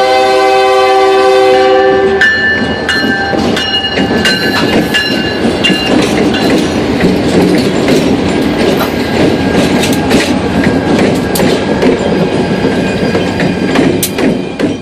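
Locomotive air horn sounding a long chord that cuts off about two seconds in. It gives way to a loud freight train passing close by, wheels clacking over rail joints with brief high squeals from the wheels.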